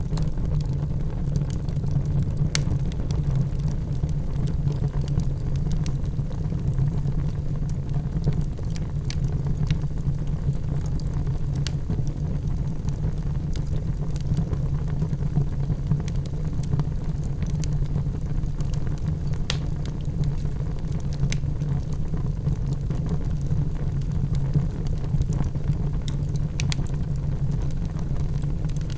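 Wood fire in a fireplace crackling: scattered sharp pops and snaps, several a second at irregular moments, over a steady low rumble.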